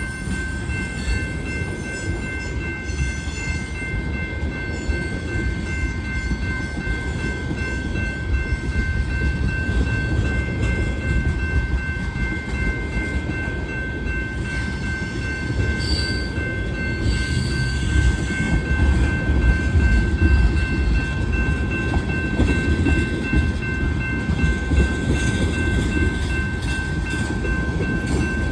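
Freight train of tank cars rolling past with a steady low rumble of wheels on rail, over which a thin, steady high-pitched wheel squeal is held throughout.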